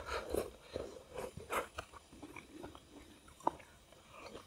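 Close-miked eating sounds: biting and chewing food, a run of irregular wet clicks and crunches, with one sharp click about three and a half seconds in.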